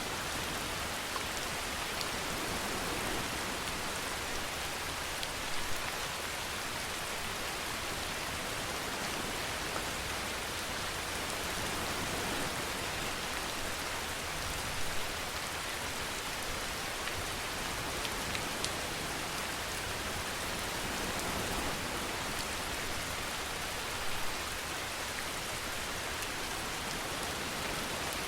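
Steady rainfall, an even hiss of rain on a surface, with a few louder drop ticks now and then.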